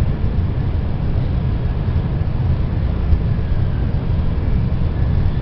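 Steady low rumble of a Tokaido Shinkansen train running at speed, heard inside the passenger cabin.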